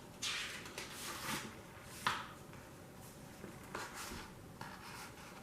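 Soft paper rustling as the pages of a picture book are turned and handled, in several brief brushes.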